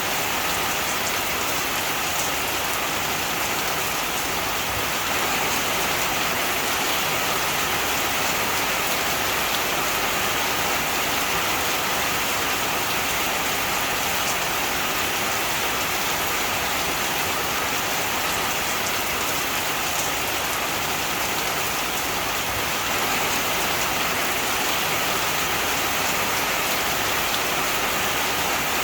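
Heavy rain falling steadily, a dense even hiss of rain on surfaces with fine drop patter mixed in.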